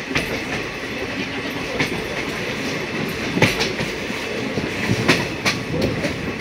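A passenger train running on the rails, heard from on board: a steady rumble of wheels with several sharp clacks at uneven intervals.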